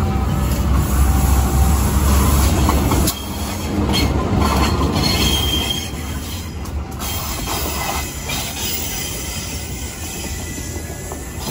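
Locomotive-hauled passenger train passing close by: a KAI diesel locomotive and its coaches rolling past. A heavy low rumble drops off sharply about three seconds in. Then the coaches go by with brief wheel squeal and clacks over the rail joints, slowly getting quieter.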